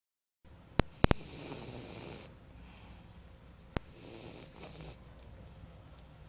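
Boston terrier snoring: two long snoring breaths about three seconds apart. Sharp clicks come just before the first snore and once between the two, louder than the snoring.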